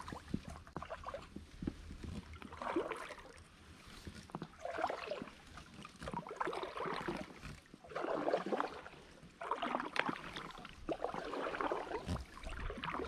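Kayak paddle strokes: the blades dip into the water and pull through on alternate sides, a splashy swish about every two seconds.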